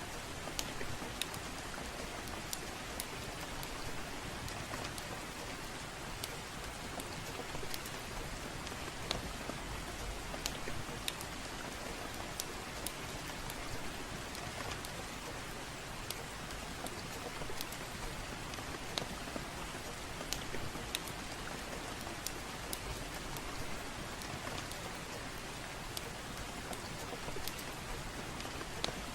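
Steady gentle rain, an even hiss, with irregular sharp crackles about once or twice a second from a wood fire burning in a fireplace.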